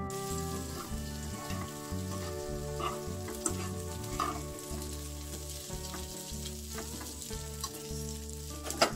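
Small anchovies and shishito peppers sizzling in a hot nonstick frying pan as they are stir-fried with a metal spoon and chopsticks. There are occasional clicks of the utensils against the pan, with a louder click near the end.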